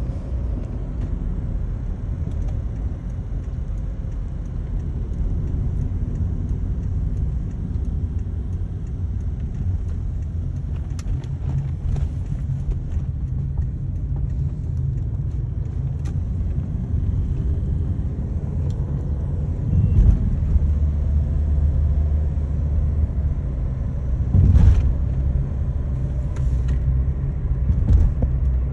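Steady low rumble of a moving road vehicle, engine and road noise together, with a few brief louder bumps in the last third.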